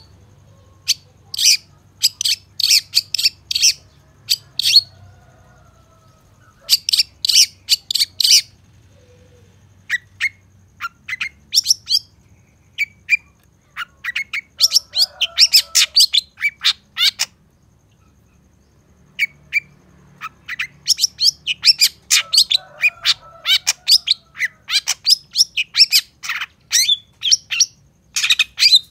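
Long-tailed shrike (cendet) singing in quick runs of sharp, high chattering notes, its song full of mimicked phrases, with brief pauses between runs about five seconds in and again past the middle.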